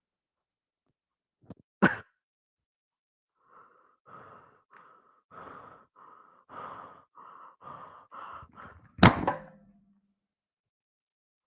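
A person sighing: a short sharp breath about two seconds in and a loud sigh about nine seconds in. Between them runs a quiet series of about nine evenly spaced muffled pulses.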